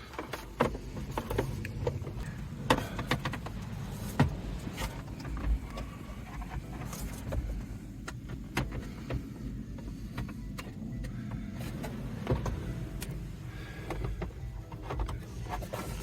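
Irregular clicks and knocks of a plastic dash trim panel and its clips being handled and worked loose inside a car, over a low rumble.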